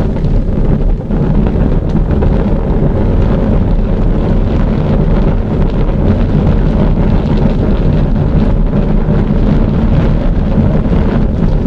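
A large fire burning with a dense, steady low rumble of flames and light crackling over it.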